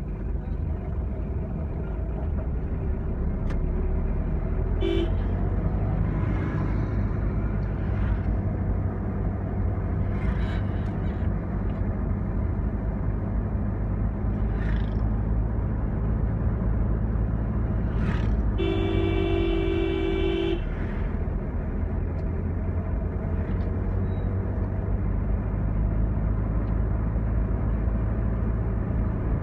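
Steady engine and road rumble of a moving vehicle, with a short horn toot about five seconds in and a longer honk of about two seconds past the middle.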